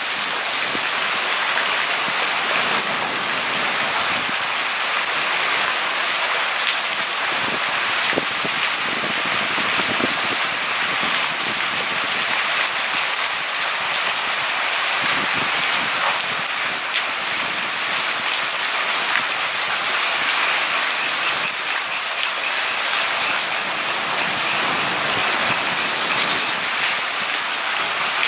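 Steady heavy rain falling during a thunderstorm, an even hiss with scattered drop ticks and no thunder in this stretch.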